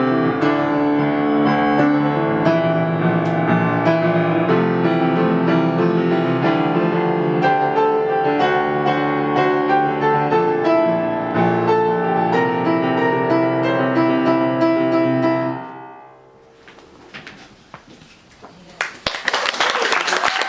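Piano playing the closing bars of a song, chords ringing and fading out about sixteen seconds in. After a short quiet gap, a dense patter of clapping starts near the end.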